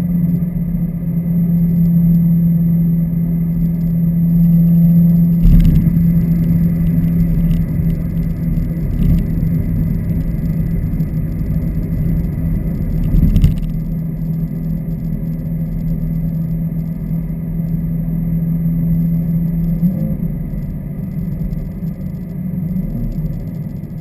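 2015 Subaru WRX's turbocharged flat-four with its axleback mufflers deleted, the exhaust droning at steady revs with little change in pitch. Two brief knocks cut through, about a quarter and just over halfway in.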